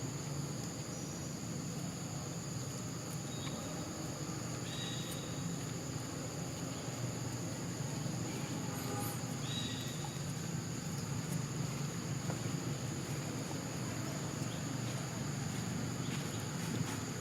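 Steady high-pitched drone of insects over a low outdoor rumble, with two short high calls about five and ten seconds in.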